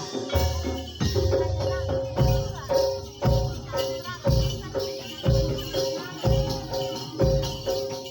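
Javanese kuda lumping (jaranan) ensemble playing live: low drum or gong beats about once a second under repeating metallic tones and a high melody that bends in pitch, with jingling percussion.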